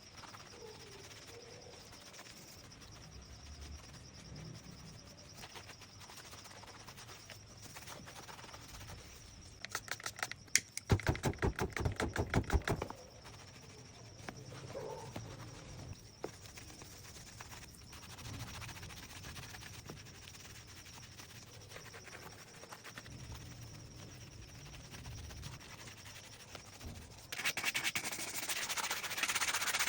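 Rapid back-and-forth scrubbing or brushing strokes on a leather shoe, in a short spell about ten seconds in and again near the end, with only faint background noise between.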